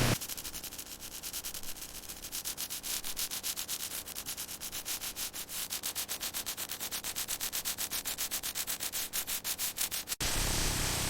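Rhythmic sanding, quick even rubbing strokes at about six a second, slowly growing louder and stopping abruptly near the end.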